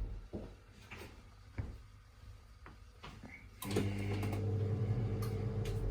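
A few faint clicks, then a steady low machine hum that starts about three and a half seconds in.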